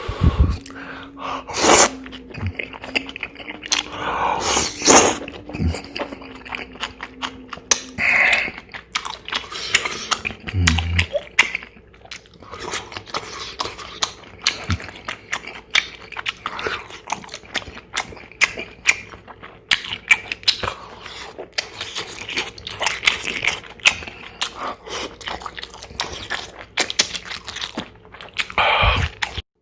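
A person chewing and eating close to the microphone: wet mouth sounds with frequent crunches and clicks.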